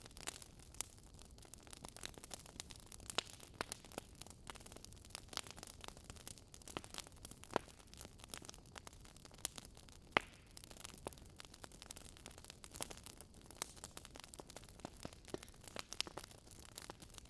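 Faint crackling of a wood fire: irregular sharp pops and snaps at random intervals over a soft hiss.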